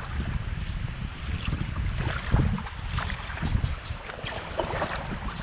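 Kayak paddle strokes splashing in river water at irregular intervals, over a steady rumble of wind buffeting the microphone.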